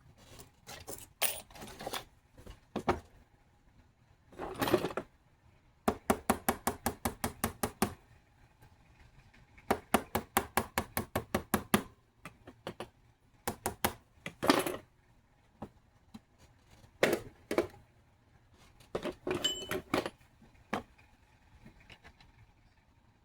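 Runs of rapid sharp taps, about eight a second, with scattered single knocks and clatters in between.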